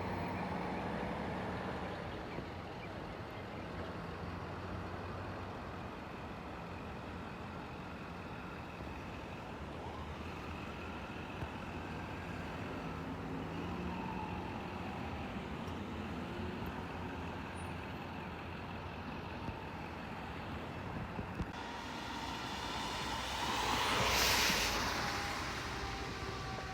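Road traffic with a heavy truck's engine running steadily. Near the end comes one loud, brief burst of rushing noise, followed by several faint tones sliding slowly down in pitch.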